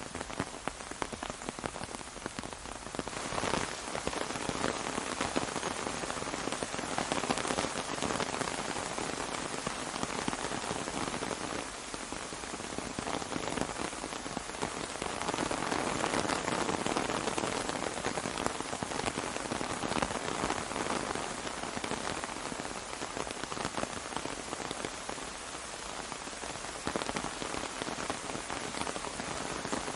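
Steady rain pattering on an umbrella, a dense patter of individual drops that grows a little heavier around the middle and eases again.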